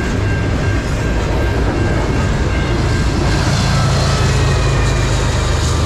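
Canadian National double-stack intermodal freight train rolling past, with a steady rumble and clatter of wheels on the rails. About halfway through, the low hum of a mid-train distributed-power diesel locomotive grows louder as it draws level.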